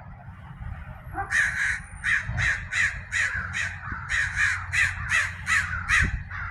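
A crow cawing in a rapid series of about a dozen harsh caws, starting about a second in, over a low steady rumble.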